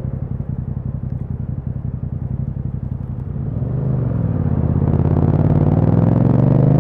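Yamaha MT-07's parallel-twin engine through an Akrapovic exhaust, at a low, lumpy, pulsing idle-speed note, then pulling away about three seconds in with the pitch rising steadily and getting louder as the bike accelerates.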